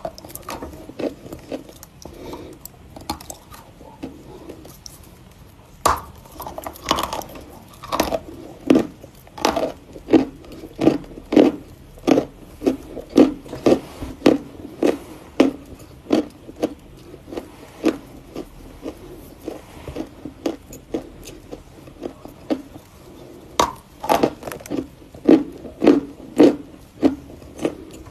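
Close-miked chewing of something hard and crunchy: a steady series of crisp crunches, about one to two a second, with louder, sharper bites around six and twenty-four seconds in.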